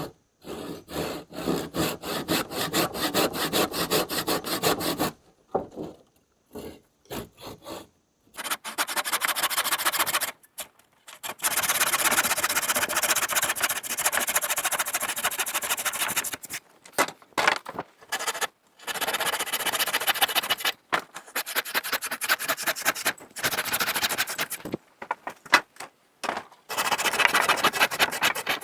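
Hand saw cutting through wood in rapid back-and-forth strokes, in several bouts broken by short pauses.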